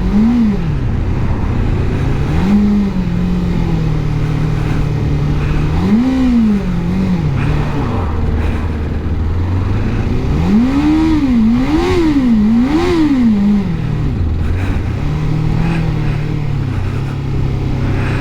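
Suzuki GSX600F four-cylinder engine revving up and falling back again and again under the throttle, with three quick rises in a row about two thirds of the way through, over steady wind noise. The engine is spluttering and losing power, not running right.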